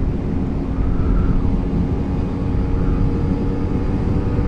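Motorcycle ridden at a steady speed: a steady engine note over wind and road rumble.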